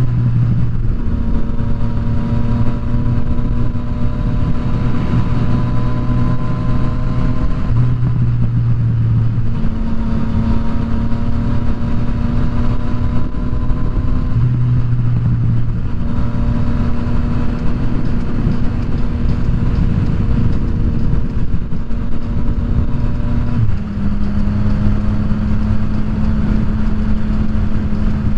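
Yamaha FZ-09's inline three-cylinder engine running at a steady cruise, its pitch holding nearly level with small steps every few seconds, under a constant rush of wind and road noise.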